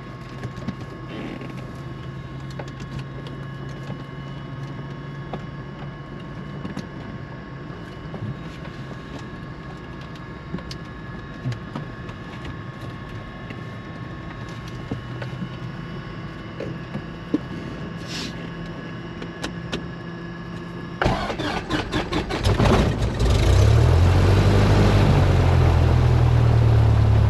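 Cessna 172 start-up. A steady electrical hum with a few fixed tones runs for about twenty seconds. Then the starter cranks the four-cylinder piston engine with a rapid run of clicks, and it catches and settles into a loud, steady run for the last few seconds.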